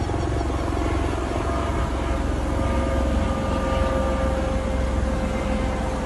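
A steady engine drone with a deep low rumble and a held tone.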